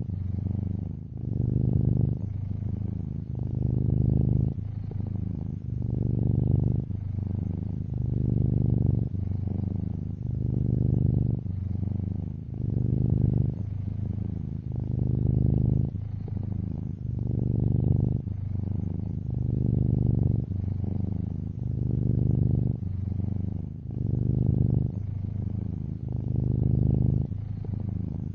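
Domestic cat purring, a low rumble that swells and eases in a steady rhythm of about one breath every two seconds.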